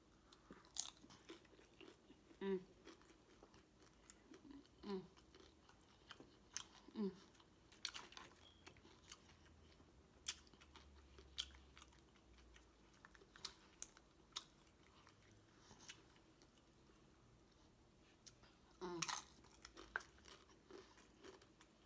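Quiet close-up chewing and mouth sounds of a person eating, with scattered sharp smacks and clicks and a few brief low sounds.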